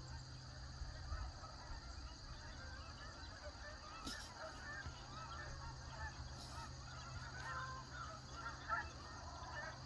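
A flock of geese honking, many overlapping calls throughout.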